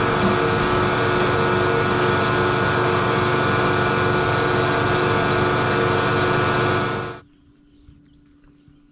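A steady machine running with a constant hum, which cuts off abruptly about seven seconds in, leaving only a faint low hum and a few soft clicks.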